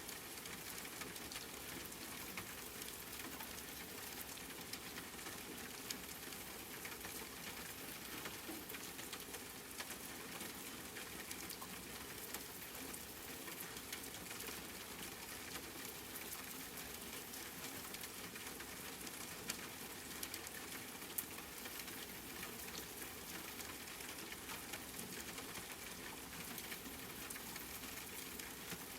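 Steady rain falling, an even hiss with many fine drop ticks and a few slightly louder single drops.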